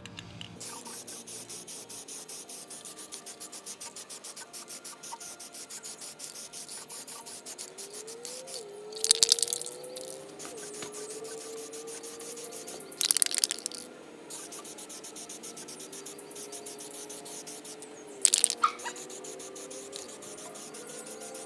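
Aerosol can of high-temperature black paint sprayed in three short bursts of about a second each, roughly nine, thirteen and eighteen seconds in, over a faint steady background of rapid ticking.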